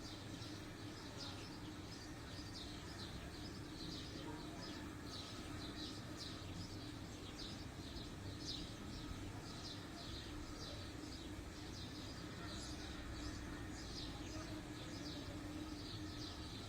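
Small birds chirping, short high chirps repeating about two a second, over a steady low hum.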